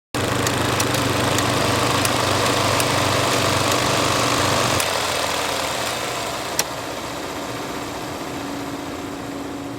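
Film reel noise: a steady mechanical whirr with scattered clicks. Its low hum drops away about halfway through, a sharper pop comes a couple of seconds later, and the sound begins to fade near the end.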